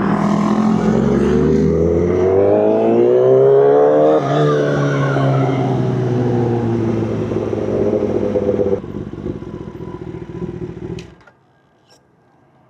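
Kawasaki ZX-10R sportbike's inline-four engine revving up in pitch for about four seconds, then winding down as the bike slows. The note drops sharply about nine seconds in and the engine sound cuts off about eleven seconds in, with a single click just before.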